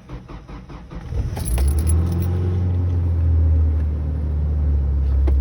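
1995 Ford Ranger engine cranked by the starter in rapid strokes, catching after about a second and settling into a steady, loud idle: a cold start after the truck has sat unstarted for about two weeks in the snow.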